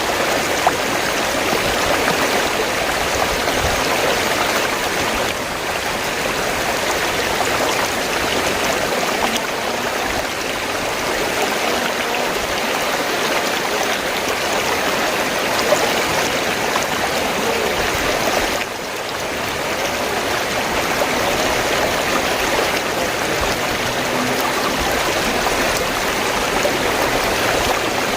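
River water flowing: a steady rushing and babbling that dips slightly in level twice, about five seconds in and near nineteen seconds.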